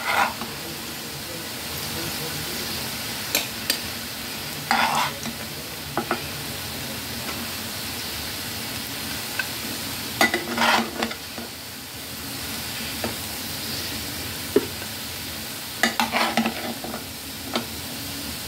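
Oil sizzling steadily around chicken shami kababs shallow-frying in a pan. A metal spatula scrapes and clinks against the pan several times as the fried kababs are lifted out.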